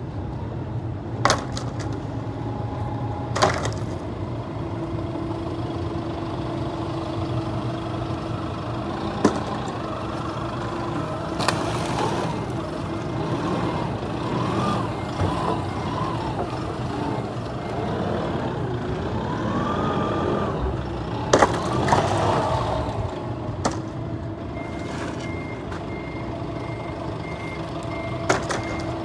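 A truck engine runs steadily, with several sharp knocks and clunks of loading. In the last few seconds a steady repeating beep starts.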